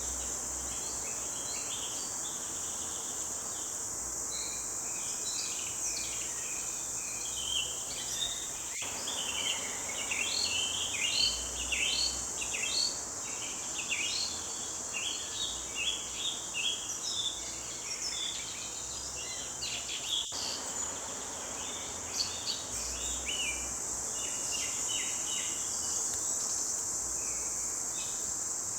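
Forest birds chirping and singing in many short calls, thickest through the middle, over a steady high-pitched insect drone.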